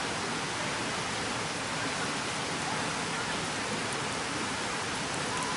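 Steady, even rushing of a mountain stream, with a few faint ticks.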